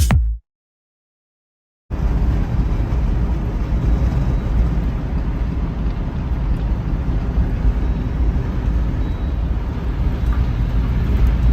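A burst of music cuts off into a second and a half of silence, then a steady low rushing rumble sets in: strong wind buffeting the microphone in wind-driven wildfire conditions.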